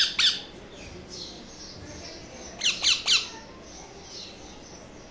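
Green parrot chicks squawking: harsh, repeated calls that end just after the start, then three more loud squawks in quick succession about two and a half seconds in, with faint softer calls between.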